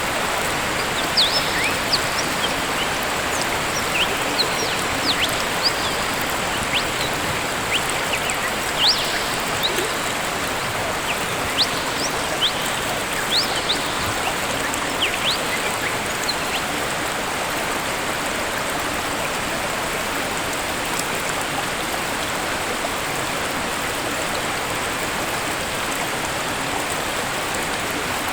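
Waterfall rushing steadily, with short high bird chirps scattered through the first half, fading out after about sixteen seconds.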